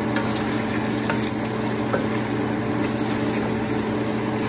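Pork belly and garlic sizzling in oil in a stainless steel pan, sautéed toward browning, with a few light taps and scrapes of a wooden spatula stirring them. A steady low hum runs underneath.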